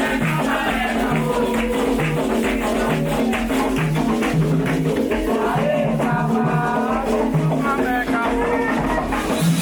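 Candomblé ritual song: several voices singing over steady percussion with a shaker rattle keeping the beat.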